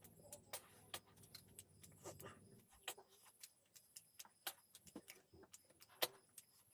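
Faint eating sounds: irregular small clicks and smacks of chewing, with a low hum that stops about two and a half seconds in.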